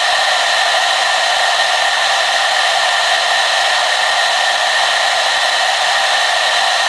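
Hair dryer running steadily: an even, unbroken rush of blown air with a constant motor whine.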